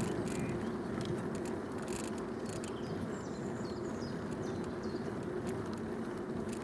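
Steady rolling and wind noise from a bicycle ridden along a canal towpath, with small birds chirping faintly about halfway through.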